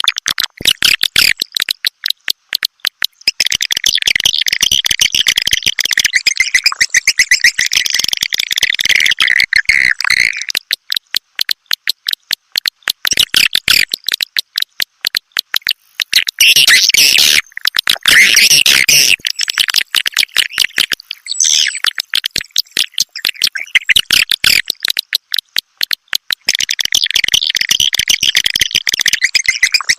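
Swiftlet call track: dense, high-pitched trains of rapid clicking twitters in runs of several seconds with short breaks, and a louder, fuller burst just past the middle. Calls like these are played to lure edible-nest swiftlets into a nesting house.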